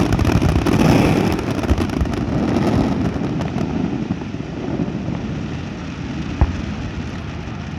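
Aerial fireworks display dying down: dense crackling bangs in the first second, then a fading rumble of echoing noise, with one last sharp bang about six seconds in.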